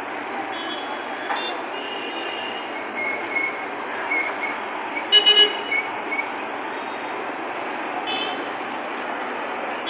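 Scania bus running in traffic with a steady noise. Short horn beeps sound here and there, and a horn gives three quick loud toots about five seconds in.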